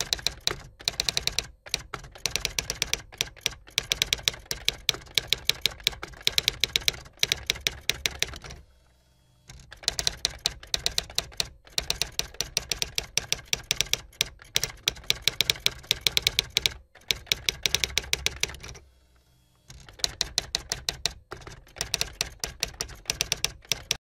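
Typing sound effect: rapid key clicks, stopping briefly twice.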